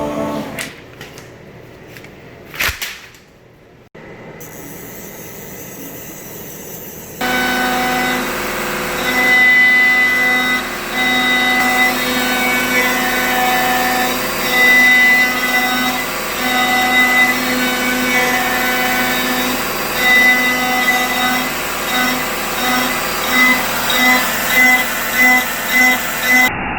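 CNC router running, its stepper motors whining in short level tones that start and stop as the axes move, over a steady machine hum. A few sharp clicks come before it, and the machine sound starts about seven seconds in.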